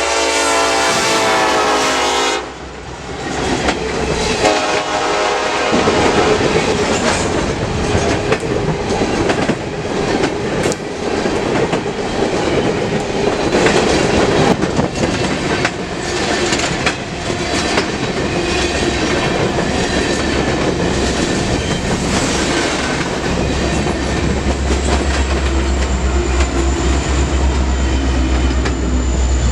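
A freight locomotive's multi-tone air horn sounds and cuts off abruptly about two seconds in, followed by a freight train rolling past with wheels clicking over the rail joints. A low rumble comes in near the end.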